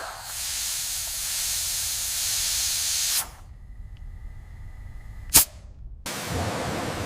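Compressed air hissing loudly for about three seconds and then cutting off abruptly, as when salvage lift bags are inflated. A single sharp click follows a couple of seconds later, and a lower rushing noise starts suddenly near the end.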